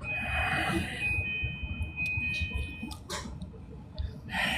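Inside a moving electric train carriage: a constant low running rumble, with a steady high-pitched tone for about three seconds that a second, higher tone joins about a second in.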